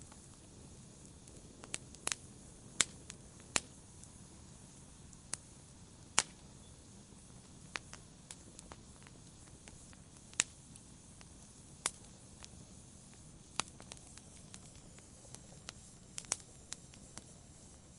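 Wood fire crackling in a fireplace: a low steady hiss broken by irregular sharp pops and snaps, some single and some in quick pairs.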